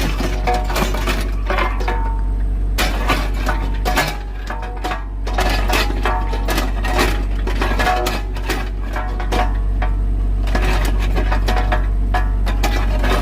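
Excavator working rock: irregular clanks and knocks of steel on stone over the steady low rumble of its engine, easing off briefly about four seconds in.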